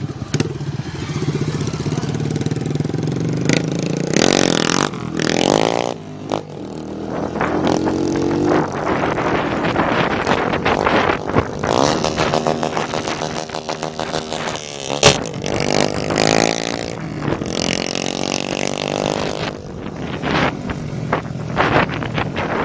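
Motorcycles with open exhausts revving up and down repeatedly, their pitch rising and falling, with sharp pops and a loud crack about fifteen seconds in.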